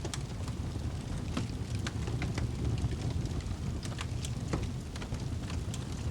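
Fireplace fire crackling: irregular sharp pops and snaps, several a second, over a low steady rumble of the flames.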